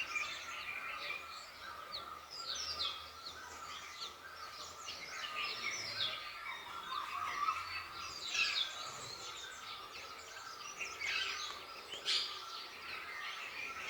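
Many small birds chirping and twittering together, quick overlapping calls with no pause, over a steady thin background tone.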